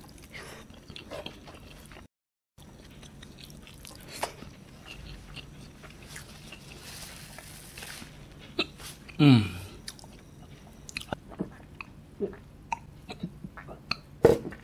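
Close-miked chewing, lip smacks and wet mouth clicks of a man eating rice and beef with his hand, with a soft sniff around seven seconds in. About nine seconds in comes a loud groan falling in pitch, a reaction to the spicy sambal belacan.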